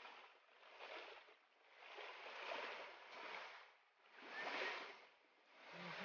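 Faint rushing water that swells and fades over and over, about once a second.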